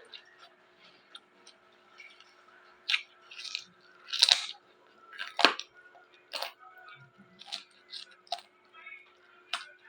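Close-miked chewing of raw vegetables, with sharp irregular crunches and quieter wet chewing in between.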